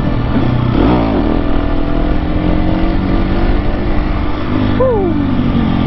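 Husqvarna 701 supermoto's single-cylinder engine running at a steady pace while riding, with wind noise over the engine note.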